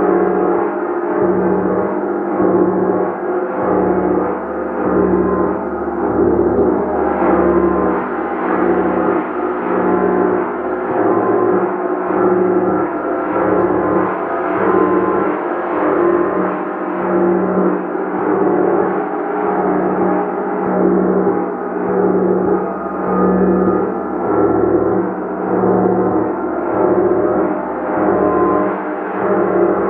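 Gong played continuously, a dense sustained wash of ringing overtones that swells in a steady pulse about every two seconds.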